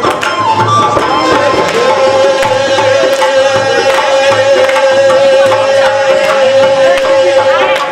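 Shyam bhajan devotional music with tabla and a steady drum beat, and a single long held note from about two seconds in.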